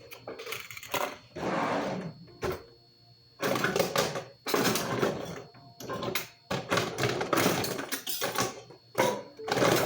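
Irregular clatter and rustling of kitchen utensils and food containers being handled while a salad is prepared, in a run of short noisy bursts with brief pauses between them.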